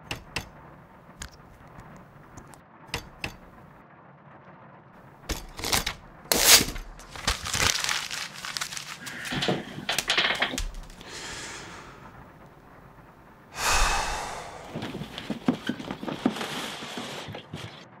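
A few single typewriter key strikes, spaced well apart. From about five seconds in come paper rustling and crinkling as a typed sheet is handled, with louder bursts near the middle and again a few seconds before the end.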